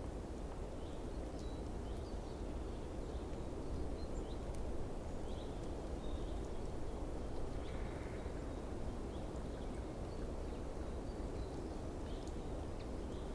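Outdoor ambience: a steady low rumbling background noise with faint, short bird chirps scattered throughout.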